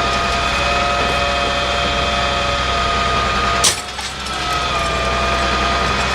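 Heavy truck engine running steadily with a steady high whine over it. A sharp click comes a little past halfway, followed by a brief drop, and then the engine and whine carry on.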